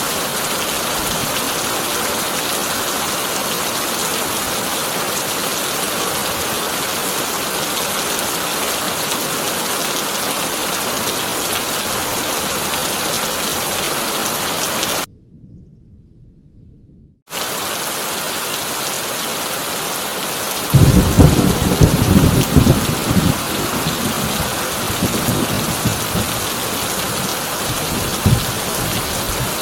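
Heavy rain drumming on a corrugated tin roof, a steady dense hiss. About halfway through the rain cuts out for about two seconds, leaving only a faint low rumble, then comes back. A few seconds later thunder rolls in, a loud low rumble with several sharper peaks that fades over about seven seconds, with one last clap near the end.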